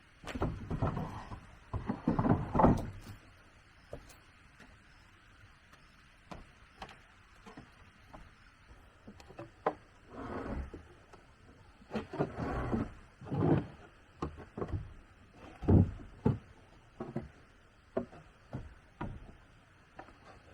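Irregular wooden knocks, clatter and scraping, as of timber being handled and set in place, in uneven bursts with the loudest knocks about two and a half seconds in and near the end.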